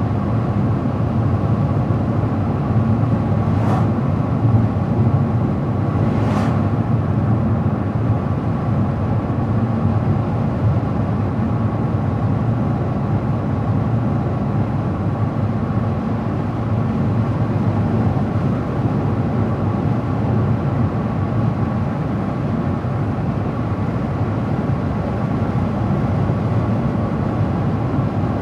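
A car driving along an open road: a steady rumble of tyre and engine noise with no change in speed, and two faint brief ticks a few seconds in.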